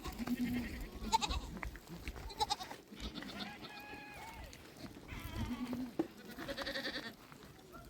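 A herd of goats bleating, several animals calling one after another at different pitches, about half a dozen calls.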